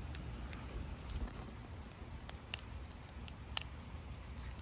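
Bonfire wood crackling, a scattering of sharp pops over a low rumble.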